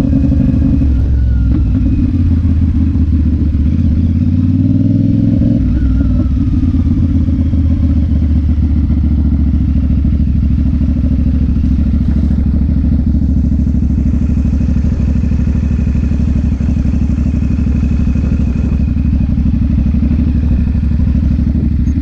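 Motorcycle engine running, its revs changing up and down in the first few seconds, then holding steady.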